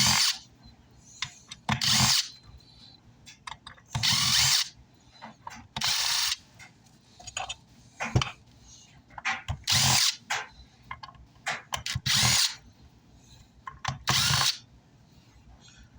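Cordless power screwdriver running in short bursts about every two seconds, backing screws out of an amplifier's metal chassis.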